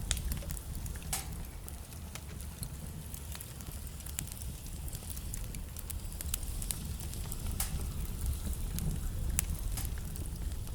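Wood fire burning in a fireplace: a steady low rumble of the flames with irregular sharp crackles and pops of the burning wood.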